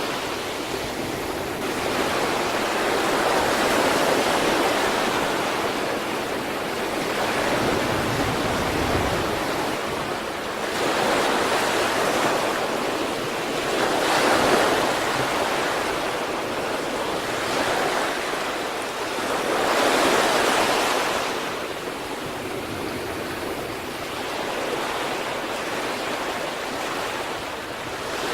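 Sea waves breaking on the shore: a continuous wash of surf that swells and eases every few seconds.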